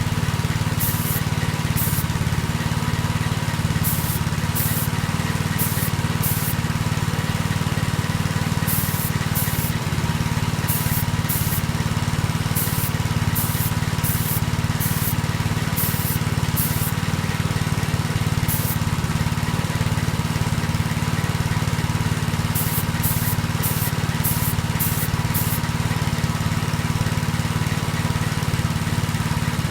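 A steady, even machine hum from a small motor, with short hisses of spray coming in quick clusters over it.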